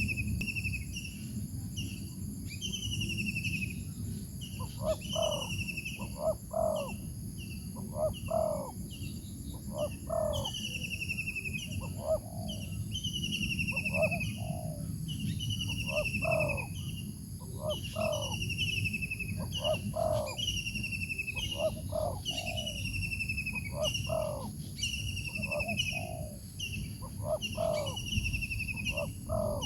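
Two birds calling against each other: a decoy bird and a wild bird in a calling contest. One repeats a falling, buzzy note about every second or two. The other answers with low paired notes every couple of seconds, over a steady high-pitched tone and a low rumble.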